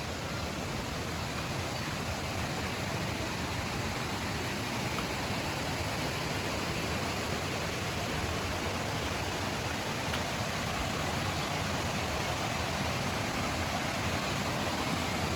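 A steady, even rushing noise with no breaks, growing slightly louder over the stretch.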